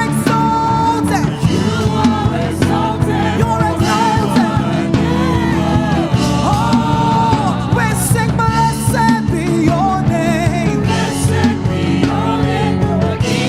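Live gospel praise-and-worship music: voices singing a melody over a full band, with sustained keyboard tones and cymbal hits.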